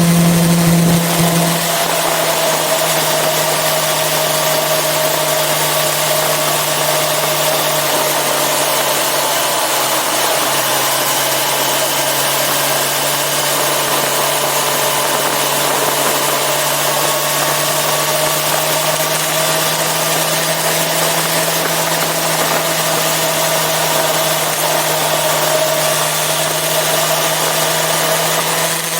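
Yamaha FZ6R sportbike's inline-four engine running at steady revs while riding, over a constant rush of wind noise. About a second and a half in, the engine note drops slightly and softens as the throttle eases, then holds even.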